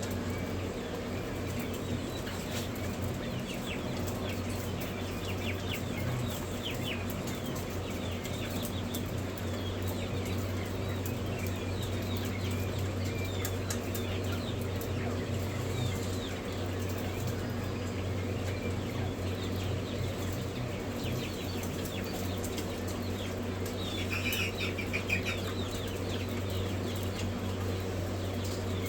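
Many brooder chicks peeping, with short high chirps scattered throughout and a louder cluster of chirps near the end, over a steady low electrical hum from the brooder equipment.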